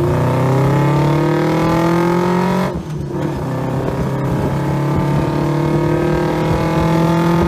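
Car engine accelerating, its pitch rising steadily. About two and a half seconds in there is a brief break and a drop in pitch, like a gear change, and then it pulls up again.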